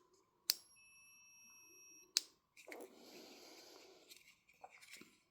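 Sonic Lance toy sonic screwdriver sounding faintly from its small speaker: a button click, a thin, steady high tone for about a second and a half, cut off by another click, then a soft hiss with a few small handling clicks.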